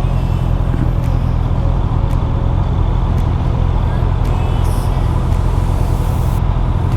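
Motorcycle ridden at a steady speed: the engine runs with an even low drone under steady wind noise.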